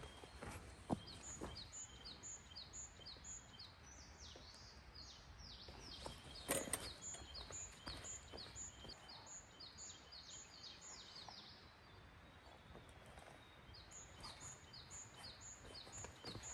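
Bird singing a long run of the same high two-part chirp, about two a second, breaking off for a couple of seconds about three-quarters through before resuming. Scattered faint knocks sound under it, with one louder knock about six seconds in.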